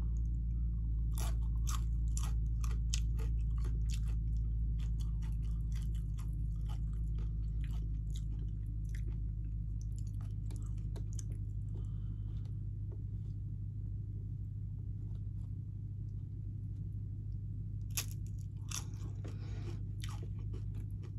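Tortilla chips crunching as a person bites and chews nachos: many quick crisp crackles, thick in the first half, fewer in the middle, with a sharp crunch about eighteen seconds in and another run of chewing after it. A steady low hum sits under it throughout.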